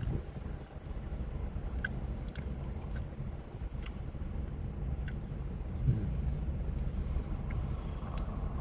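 A person chewing a mouthful of bacon, with scattered small sharp clicks of the food, over a steady low rumble.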